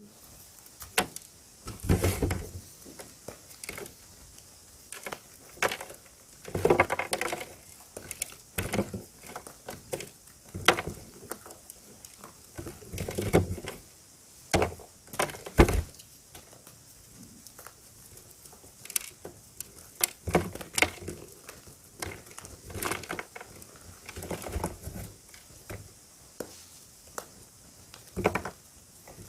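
Blocks of gym chalk being crushed and crumbled: irregular crunches and sharp snaps with short pauses between.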